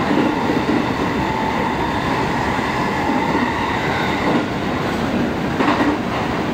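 Running noise of a train under way, heard from inside the car: a steady rumble of wheels on rails with a faint whine, and a short clatter about five and a half seconds in.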